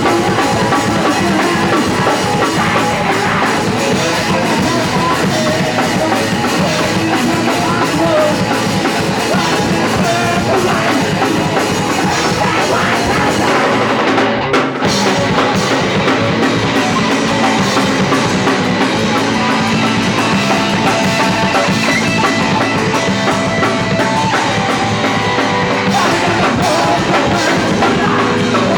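Live punk rock band playing loud, with a drum kit, distorted electric guitar and bass, with a momentary drop in the playing about halfway through.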